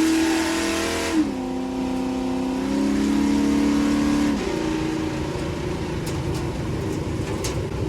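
Race truck engine held at high revs with a loud hiss until about a second in, when the hiss cuts off with a thump and the revs drop. It holds lower revs for a few seconds, then falls back to a lower, rougher running near idle about four seconds in.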